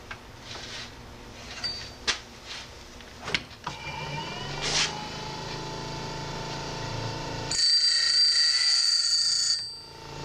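Drill bit sharpener motor running, with a few clicks and knocks as the bit holder is brought into place. Then the drill bit's lip is ground against the spinning face wheel: a loud, steady, high-pitched ringing grind of about two seconds. It breaks off briefly and starts again near the end as the other flute side is ground.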